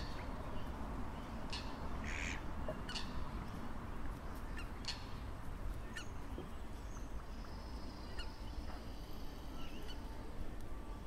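Birds calling: short sharp high chirps scattered through, and a thin wavering high note from about seven seconds in, over a steady low outdoor rumble.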